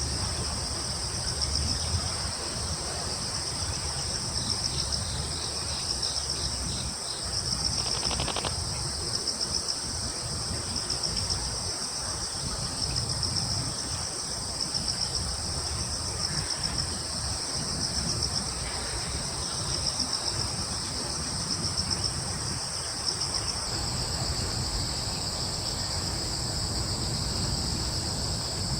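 Crickets and other insects trilling in a steady, high-pitched chorus over a low rumble. A short buzzing call cuts in about eight seconds in.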